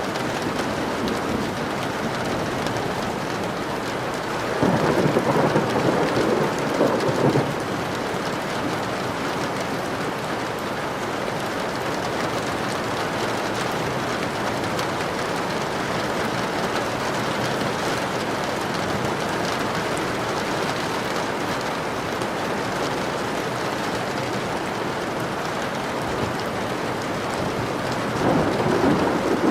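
Steady rain falling, with a roll of thunder about five seconds in that lasts a few seconds, and another rumble of thunder beginning near the end.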